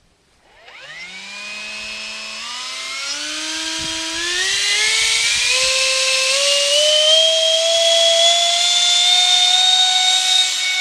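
Electric ducted-fan motor of a radio-controlled F-16 model jet spooling up from silence to a loud high whine with a rushing hiss. Its pitch rises quickly at first, then keeps climbing more slowly as the throttle comes up for launch.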